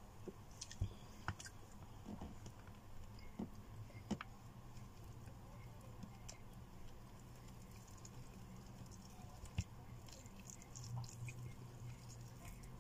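Chewing of meat: the wet mouth sounds of someone eating, with a few sharp clicks and smacks scattered through, over a faint low hum.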